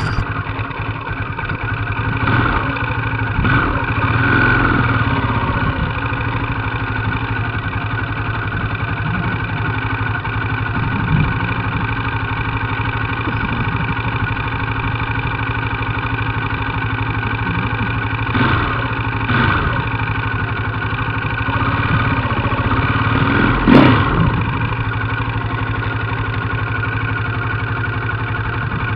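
Trail motorcycle engines idling steadily, with short bursts of revving a few times, the loudest about 24 seconds in.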